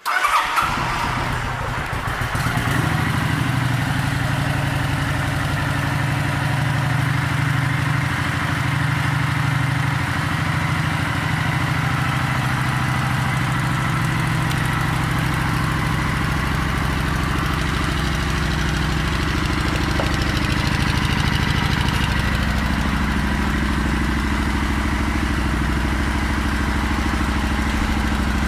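Kawasaki Vulcan 900 Classic's V-twin engine starting up and then idling steadily.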